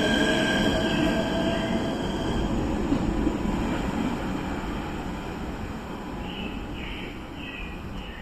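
Limited express electric train moving slowly over the station tracks. Its wheels squeal against the rails for the first couple of seconds, then the rumble fades.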